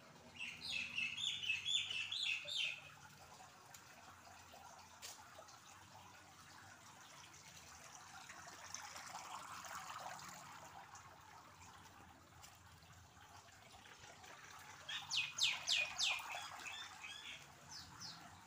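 A bird calling in two bursts of quick, short, high chirps, about four a second, one burst near the start and another near the end.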